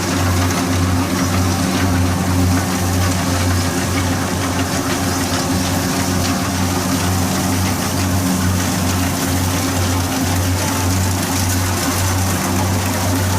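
Kubota DC60 combine harvester's diesel engine running steadily as a loud, even low hum.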